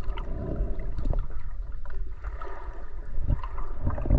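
Water sloshing and gurgling close to the microphone, irregular, with small knocks.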